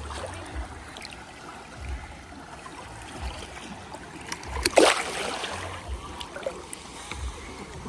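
Shallow seawater lapping and trickling around a person in the water, with one louder splash a little past halfway.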